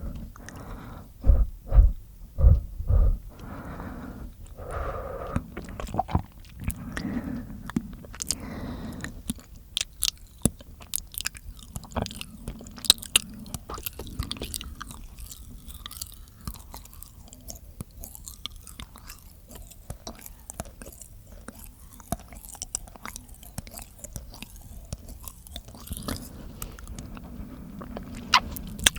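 Close-miked mouth sounds: wet clicks, smacks and chewing sounds from the mouth. About four heavy low thumps come in the first few seconds, then a dense, uneven run of sharp clicks.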